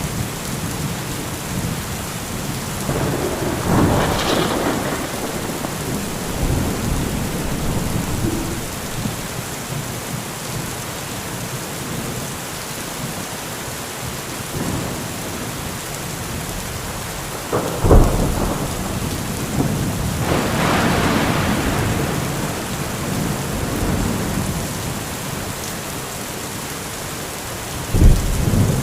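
Heavy steady rain with thunder. A rumble swells a few seconds in. About two-thirds through a sharp thunderclap is followed by a rolling rumble, and another sharp clap comes near the end.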